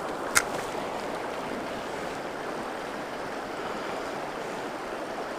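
Steady rush of a flowing trout stream, with one short, sharp click or splash about half a second in.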